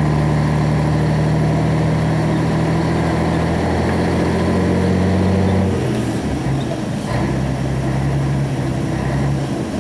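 Heavy truck's diesel engine heard from inside the cab, running at a steady pitch, then dropping to lower revs about six seconds in as the throttle eases off.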